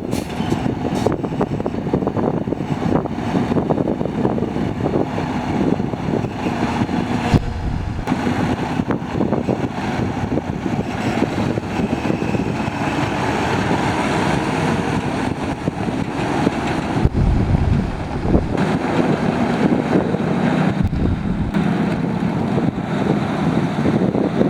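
Diesel engine of a 2017 Freightliner Cascadia tractor truck running steadily, with a few brief bursts of low rumble.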